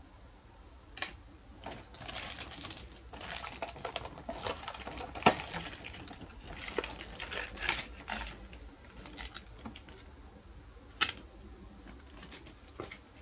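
Plastic packaging crinkling and rustling as it is handled, with a few sharp clicks and taps.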